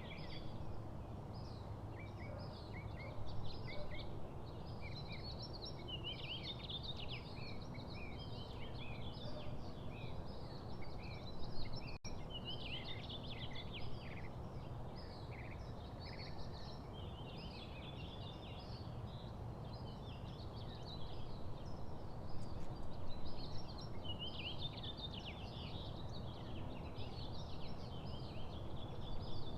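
Several small songbirds chirping and singing at once, with short overlapping calls coming continuously over a steady low background rumble.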